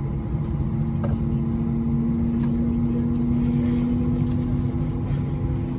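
Airbus A320 with IAE V2500 engines heard from inside the passenger cabin: a steady engine hum over a low rumble, its main tone creeping slowly up in pitch, with a few light clicks of cabin rattle.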